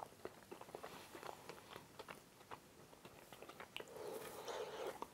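A person chewing a mouthful of fried galushki dumplings: faint, irregular wet mouth clicks and smacks.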